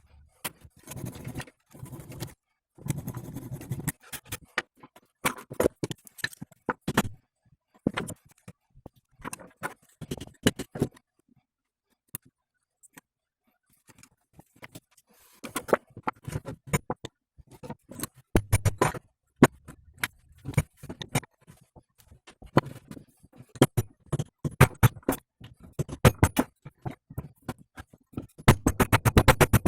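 Hand tools and metal parts clinking, tapping and scraping in an irregular run of sharp clicks and knocks, with a quiet pause partway through and quicker strikes near the end, as work goes on at the driveshaft's universal joint.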